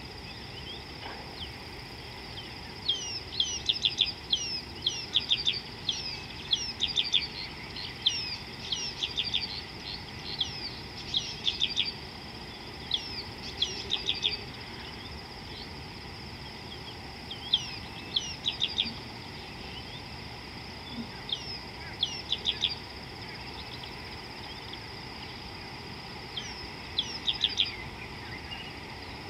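A bird calling in bursts of quick, sweeping chirps, repeated every second or two, with a pause near the end. Under it runs the steady rush of a fast-flowing river and a constant high whine.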